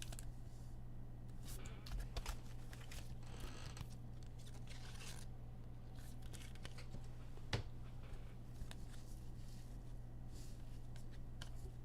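Faint rustling and light clicks of trading cards being handled and slid through the hands, with pack wrappers crinkling, over a steady low hum.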